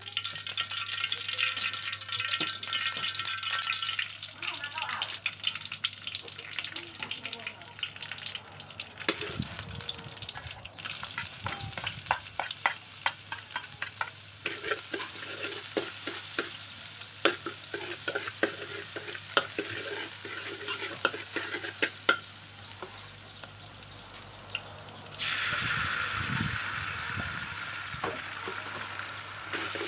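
Hot oil sizzling and crackling in a steel wok as minced garlic and chili fry in it. About 25 seconds in the sizzle suddenly grows louder, as the sauce hits the hot oil.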